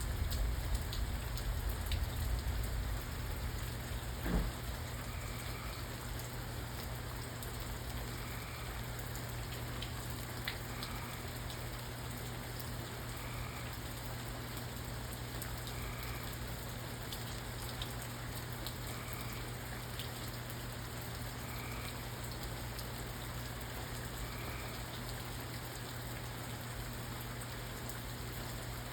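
Steady rain falling, with a low rumble in the first few seconds and a single sharp knock about four seconds in. A faint, short two-pitched call repeats about every two and a half seconds through the middle.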